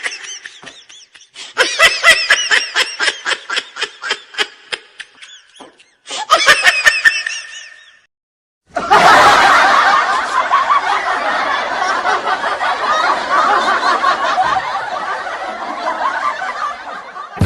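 Laughter sound effects one after another: a rapid, pulsing laugh, then a short second laugh, then after a brief pause a long stretch of many voices laughing together.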